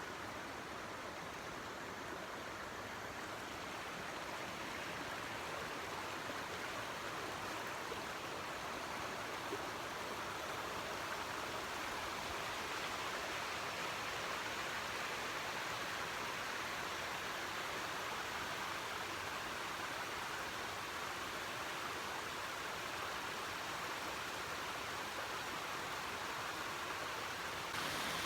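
Small waterfalls on a mountain brook rushing steadily.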